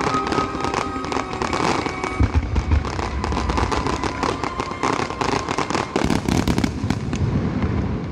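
A barrage of aerial fireworks: many sharp cracks and pops in quick succession from several shells bursting at once. Deep booms stand out about two seconds in and again around six seconds in.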